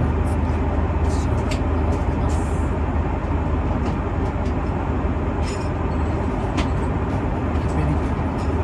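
Steady low rumble and hum heard from inside a moving vehicle, with a few faint clicks.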